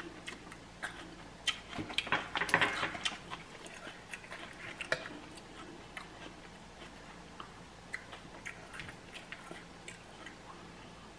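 Quiet chewing of crunchy Takis rolled tortilla chips in a cream-cheese-stuffed jalapeño, with a dense run of crunching about two seconds in and a shorter one near five seconds. Scattered small clicks and taps come while a plastic fork spreads cream cheese.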